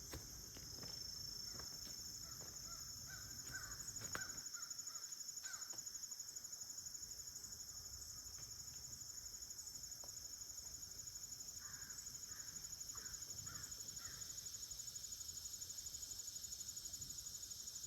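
Insect chorus trilling steadily at a high pitch in woodland. Over it, a bird calls in two short runs of calls, about three seconds in and again about twelve seconds in.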